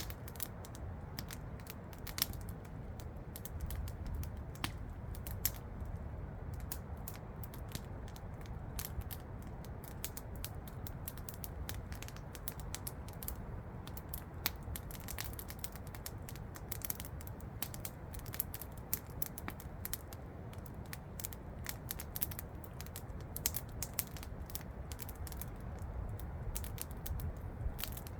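Wood campfire crackling, with frequent irregular sharp pops and snaps over a steady low rush of falling water from a waterfall.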